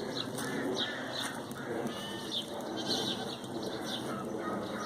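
Goats bleating in short, scattered calls.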